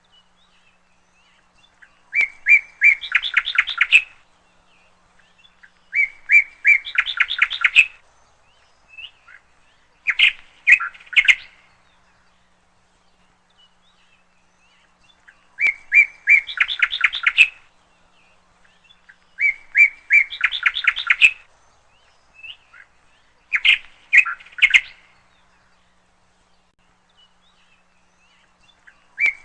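A single bird singing close by, repeating the same short song phrase about every four seconds: a couple of clear opening notes followed by a quick run of chirping notes, each phrase lasting under two seconds.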